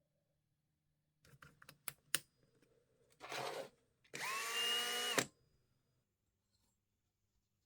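A few sharp clicks and knocks of tool handling, then a short scraping rush. After that a small electric power tool spins up and runs for about a second before it stops.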